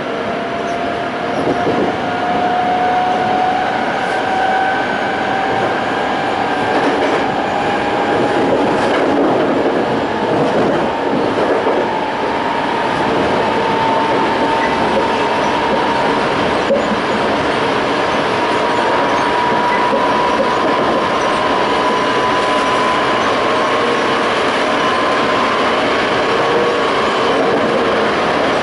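Toei 5300 series electric train running, its Hitachi-built Mitsubishi GTO-VVVF inverter and traction motors giving a whine that rises slowly in pitch as the train gathers speed. Under it are the rumble and clatter of the wheels on the rails.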